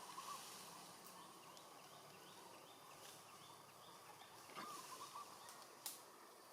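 Faint outdoor ambience with brief squeaky chirps at the start and again about two-thirds through, a run of short high notes repeated about three times a second in between, and one sharp click near the end.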